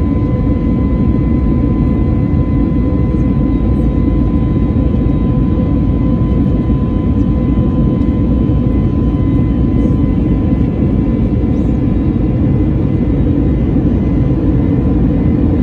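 Inside the cabin of an Airbus A321neo in flight after departure: the CFM LEAP-1A jet engines and airflow make a steady, loud, deep roar, with a faint steady whine over it.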